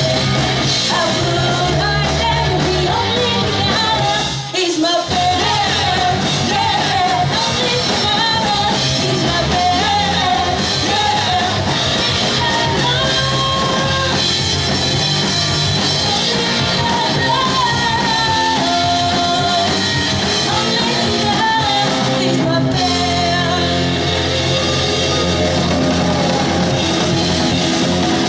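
Pop-punk band playing live, with a vocalist singing over loud guitars, bass and drums. The band cuts out for a brief break about four and a half seconds in, then comes straight back in.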